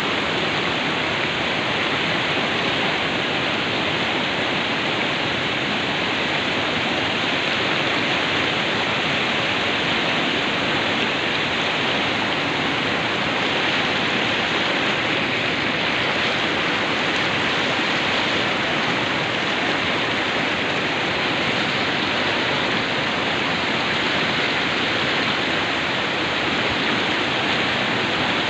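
Fast-flowing river water rushing steadily over rocks, a constant even rush with no breaks.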